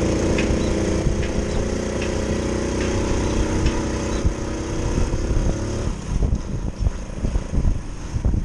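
Motorcycle engine running at a steady speed, cutting off suddenly about six seconds in, followed by gusty wind buffeting on the microphone.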